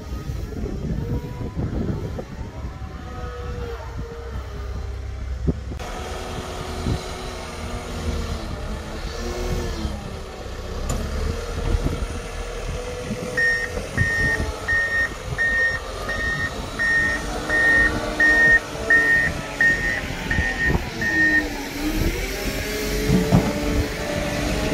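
Snow-clearing vehicle's engine running with rising and falling revs, and its backup alarm beeping about a dozen times, roughly one and a half beeps a second, partway through as it reverses.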